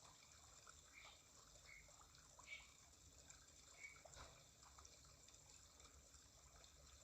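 Near silence in a pause of the bird's song, with a few faint short chirps.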